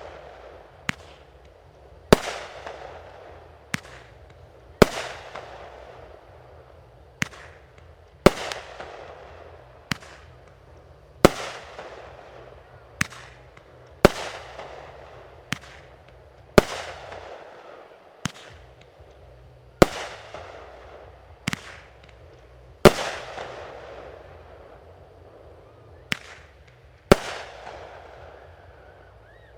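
Fireworks going off in a steady run, about nineteen sharp bangs one to three seconds apart, each followed by a fading crackle and hiss.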